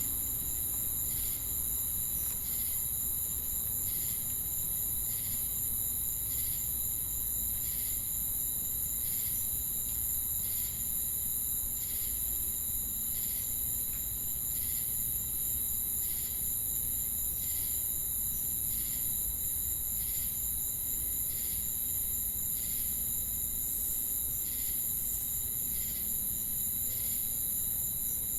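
Chorus of crickets and cicadas: a continuous high-pitched shrill drone, with a short chirp repeating evenly about three times every two seconds.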